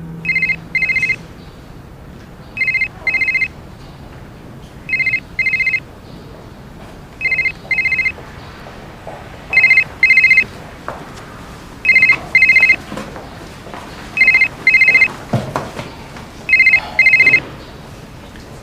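Telephone ringing with a double-ring pattern: two short trilling rings, repeated about every two seconds, eight times over.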